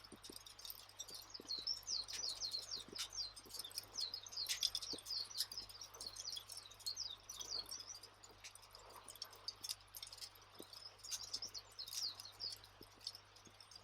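Campfire crackling, with scattered sharp pops, under a continual twittering of small birds in short falling chirps.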